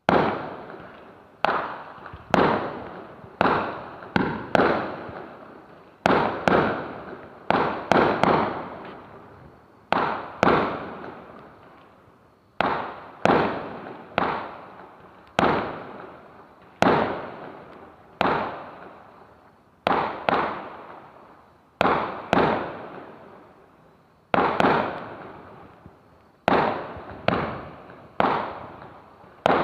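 Fireworks bursting in a steady series of sharp bangs, roughly one every second or so, each bang trailing off in a fading echo before the next.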